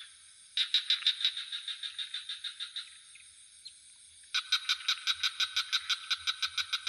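Frogs calling in rapid pulsed trills of about six or seven pulses a second, in two bouts with a lull between, over a steady high-pitched insect drone.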